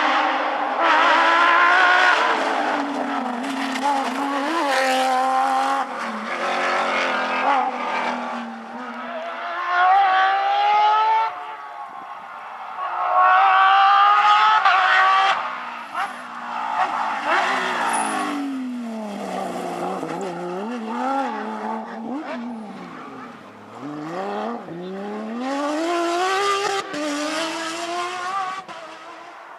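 Rally car engine at full throttle, the revs climbing and dropping back at each gear change over several loud passes. From about twenty seconds in, the revs swoop down and up in quick succession, as if braking and accelerating through corners.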